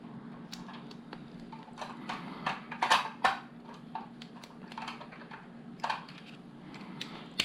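Plastic LEGO bricks clicking and clattering as pieces are handled and snapped together, with a quick run of clicks about three seconds in, over a faint steady hum.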